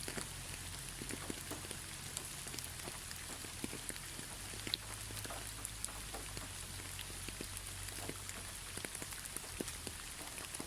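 Gentle, steady rain with no thunder: an even hiss with many separate drops ticking on a hard surface.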